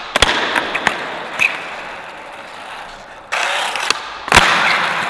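Skateboard riding on bare bearings in place of wheels, rolling across the ground with a gritty mechanical rasp. There are a few sharp clacks in the first second, the rolling rasp starts afresh a little over three seconds in, and a loud hard clack comes soon after.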